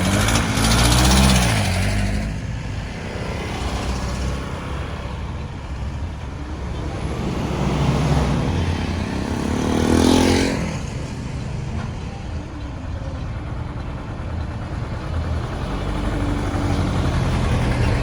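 Road traffic: motor vehicles passing close by over a steady low rumble of engines and tyres. One passes loudly about a second in and another about ten seconds in, its engine note changing pitch as it goes by.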